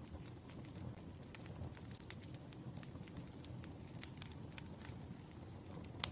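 Wood fire crackling: scattered sharp pops and snaps over a low, steady rumble of burning logs, with one louder pop near the end.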